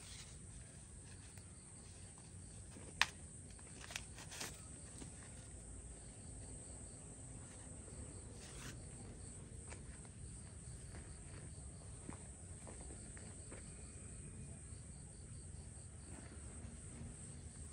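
Insects chirping: a steady high drone with a fainter cricket pulsing over it. A few sharp clicks or knocks about three to four and a half seconds in, the first the loudest.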